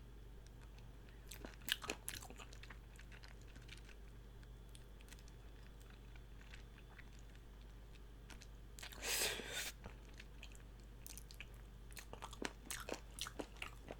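Quiet close-up chewing and crunching of chicken feet, with scattered crisp clicks and one brief louder burst about nine seconds in.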